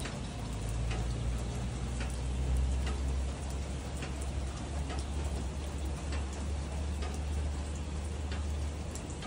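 Steady rain falling, with scattered individual drops ticking on a surface over a constant low rumble.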